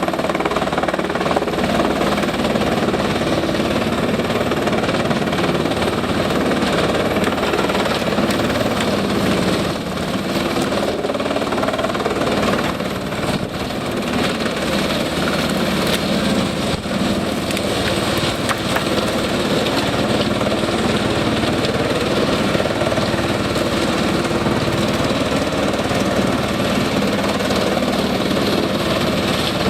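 Gandini Meccanica industrial wood chipper, driven by a Scania diesel engine, running loudly while chipping wood. Dense short cracks and knocks run through the steady machine noise, and the level dips briefly a few times between about ten and seventeen seconds in.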